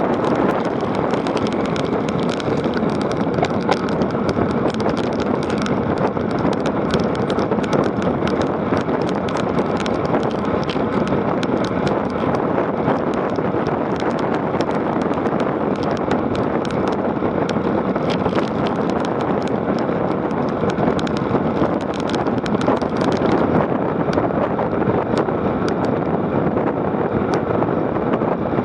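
Wind rushing over the microphone as a bike rides over rough ground, a steady loud rush with constant small rattles and clicks throughout.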